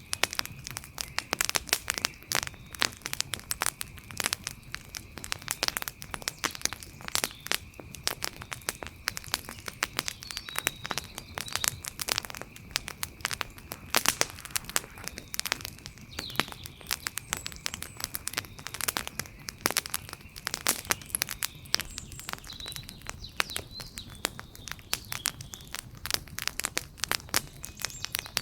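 Wood fire burning, with a dense, irregular stream of crackles and sharp pops. A faint steady high-pitched tone runs behind it, and a few faint short chirps come and go.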